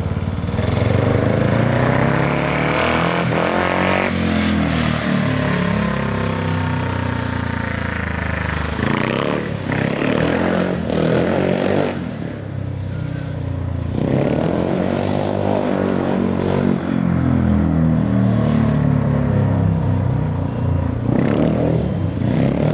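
Speedway motorcycles' 500 cc single-cylinder methanol engines running on a dirt track, the revs rising and falling several times. The sound is loud throughout.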